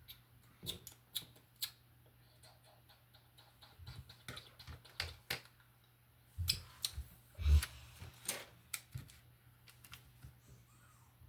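Plastic Lego bricks clicking and clattering as pieces are handled and pressed together: irregular sharp clicks, with a louder knock about seven and a half seconds in.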